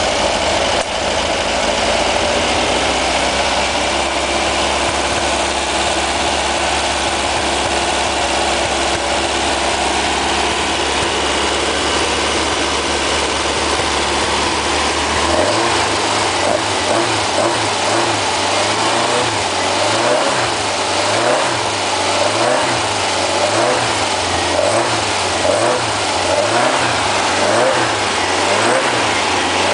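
Freshly built 1775 cc air-cooled VW flat-four engine on its first fire-up, running at a steady idle, then from about halfway revved in short blips about once a second.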